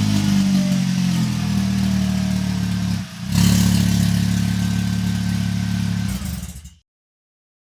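VW 07K 2.5-litre five-cylinder engine running steadily just after starting, through a newly repaired exhaust: the leak right after the manifold is fixed and a new, smaller muffler is fitted. The sound breaks off for a moment about three seconds in, returns, and cuts off near the end.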